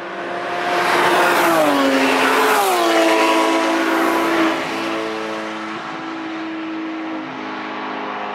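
Two cars driven hard on a race track pass close by, their engines loud and dropping in pitch in two sharp steps, about a second and a half and two and a half seconds in, as they shift up. Another car's engine then runs on more steadily and a little quieter.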